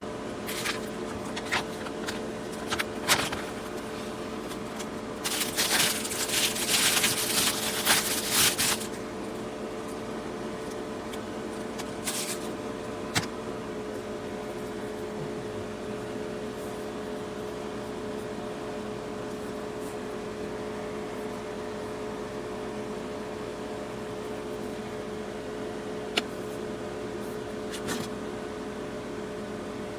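Scattered light clicks and knocks of something being handled, with a few seconds of rustling early on, over a steady electrical hum.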